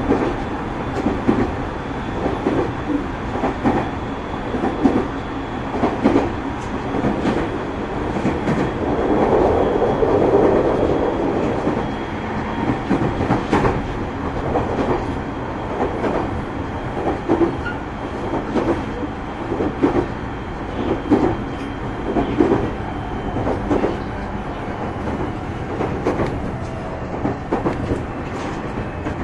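JR 209 series electric train running at speed, heard from inside motor car MoHa 209-2151: steady running rumble with wheels clacking over rail joints in irregular clusters, and the rumble swells louder for a couple of seconds about ten seconds in.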